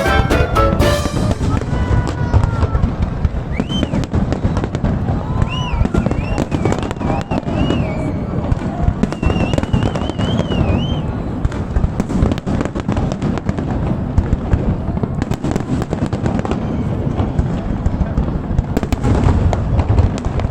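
A fireworks display: a dense, continuous barrage of bangs and crackling. High wavering whistles sound between about 4 and 11 seconds in.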